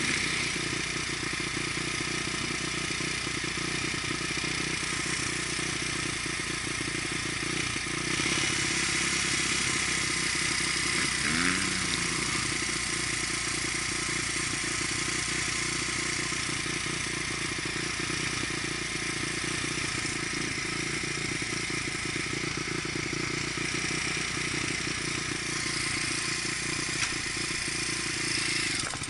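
Dirt bike engine running steadily while being ridden, holding a fairly even pace throughout.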